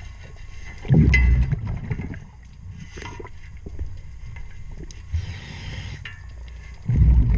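Scuba diver breathing underwater through a regulator: a loud burst of exhaled bubbles about a second in and again near the end, with a fainter hiss of inhalation between them and a few faint clicks.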